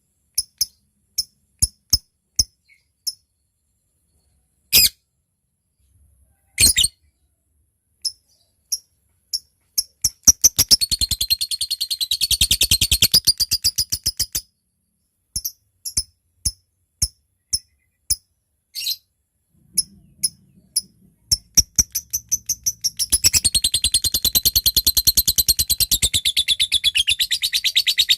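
Lovebird calling. It gives single sharp high chips about half a second apart (ngetik) that break into a long, fast chattering trill (ngekek) for about four seconds. Then come more single chips, and a second long chatter that starts about three quarters of the way through and keeps going.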